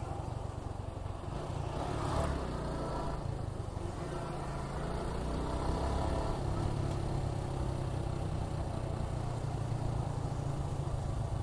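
Suzuki Gixxer 155's single-cylinder engine running steadily while the motorcycle is ridden, heard as a continuous low rumble.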